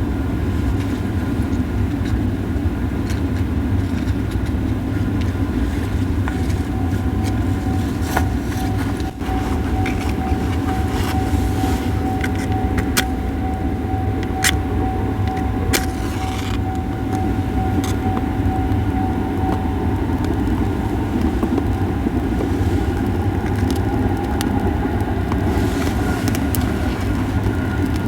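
Japanese cedar firewood burning, crackling and popping with scattered sharp snaps, over a steady low rumble. A thin steady tone sounds from about six to twenty seconds in.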